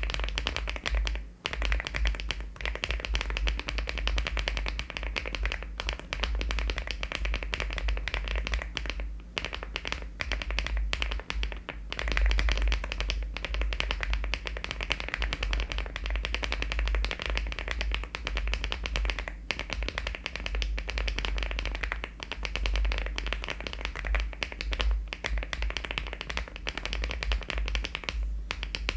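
Fast, continuous typing on a LEOBOG Hi75 aluminium mechanical keyboard fitted with HMX switches and Cherry-profile keycaps: a dense, even stream of key clacks.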